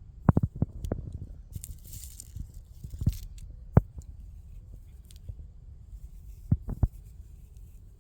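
Dry sycamore seed ball being squeezed and crumbled by hand: scattered sharp crackles and snaps, some in quick clusters, with a brief rustle as the fuzzy seeds pull apart.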